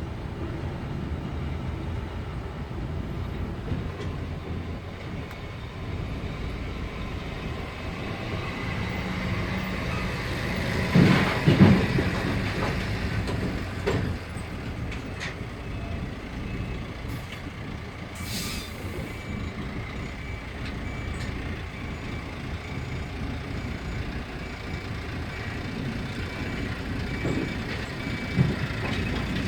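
Heavy diesel machinery running steadily: a large excavator and dump trucks at work loading gravel. A loud clattering burst comes about eleven seconds in, another knock near fourteen seconds, and a short hiss around eighteen seconds.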